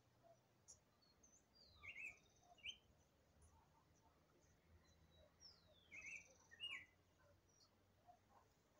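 Faint songbird singing: a short phrase repeated twice, about four seconds apart, each a high whistle sliding downward followed by two short, sharp notes, with a thin high trill alongside.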